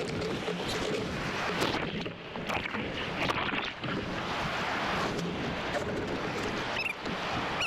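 Ocean surf and water splashing: an uneven rush of water noise that swells and dips.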